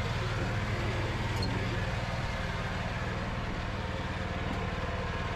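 Mini tractor engine running steadily, towing a tank.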